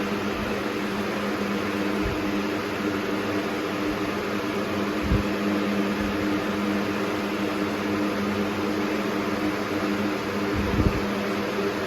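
Air King 9723 box fan running loud on its high speed: a steady rush of air over a low, even hum. A couple of brief low thumps come about five and eleven seconds in.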